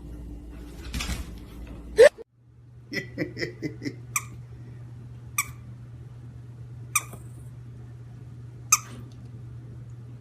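A dog giving short, sharp squeaks, one every second or two, with a brief run of quicker chirps before them, over a steady low hum.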